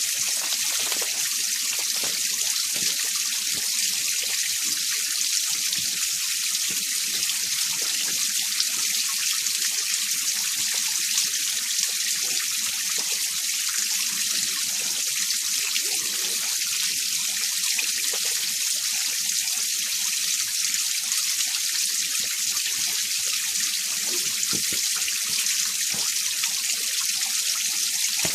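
Mountain stream water flowing and splashing over rocks in winter, a steady bright hiss of running water.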